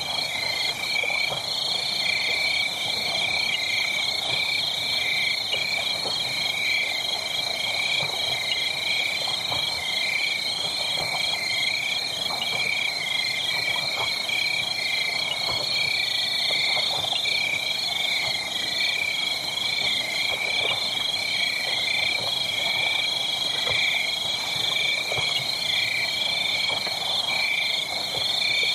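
Dense night chorus of calling frogs: many high, rapidly pulsing trills overlapping without pause. Faint scattered crackles of a burning wood fire sit beneath it.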